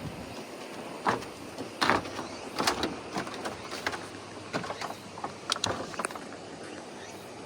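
Irregular knocks and clatters, about a dozen sharp hits over roughly five seconds, over a steady background noise.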